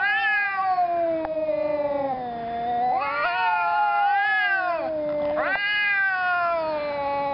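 Domestic cats yowling at each other in a standoff: long, drawn-out, wavering yowls, with a new one rising about three seconds in and another about five and a half seconds in.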